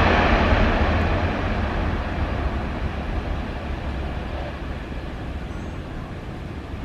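Jet airliner's engines roaring as the aircraft passes and moves away, the sound dying away steadily.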